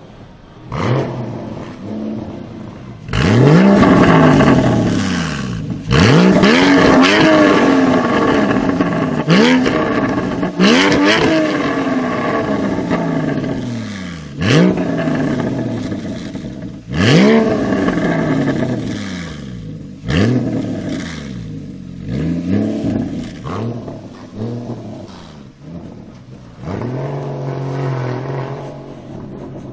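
Porsche Cayman GT4's flat-six engine, breathing through a Fabspeed Valvetronic exhaust, revved about ten times in quick blips. Each rev shoots up sharply and then falls back, and near the end the engine holds a steadier note.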